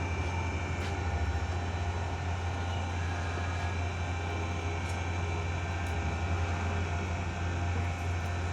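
A steady low mechanical hum, like an engine or motor running, with a few faint clicks.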